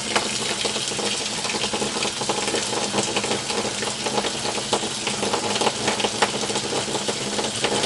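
Water spraying steadily from a shower head and splattering, running cold off house water pressure with the tankless heater not yet switched to hot.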